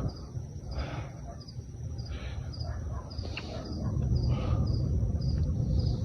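Newly lit campfire of dry firewood catching and crackling, with a few sharp pops. Insects chirp steadily about twice a second.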